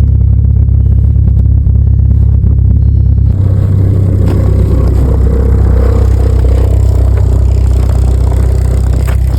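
Volkswagen TDI turbodiesel engine idling steadily shortly after a cold start. About three seconds in, a brighter, rougher noise joins it.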